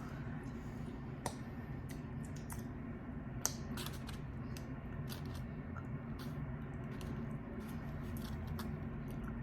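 Close-up eating sounds of chicken wings being chewed: scattered small wet clicks and crackles over a steady low hum.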